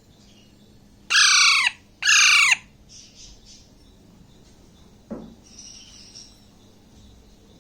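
A young Alexandrine parakeet gives two loud, harsh screeching calls about a second apart, each falling in pitch, followed by a few faint short chirps.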